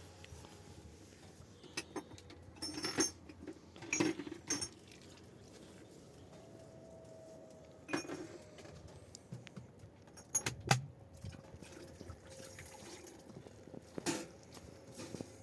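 Irregular clinks and knocks of small household objects being handled, about eight or nine separate strikes with pauses of a second or more between them.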